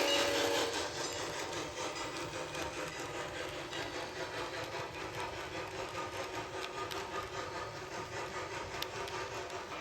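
HO-scale model train running along the track: a steady mechanical running sound with fast, even clicking.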